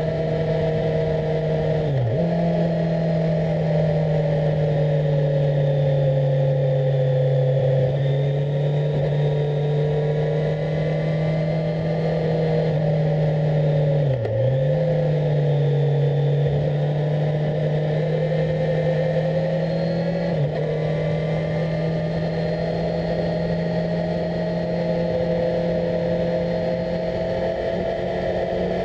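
Kawasaki Z1000SX motorcycle's inline-four engine, heard from on board, running at steady moderate revs with the pitch drifting slightly up and down. The note dips sharply and recovers twice, about two seconds in and again about fourteen seconds in.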